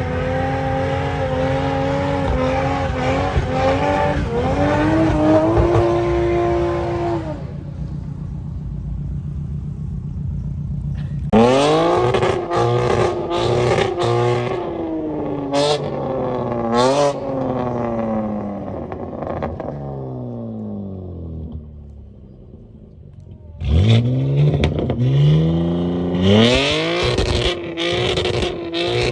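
Car engines revving hard and accelerating, the engine note climbing and falling repeatedly, in three separate runs with a few sharp cracks in the exhaust.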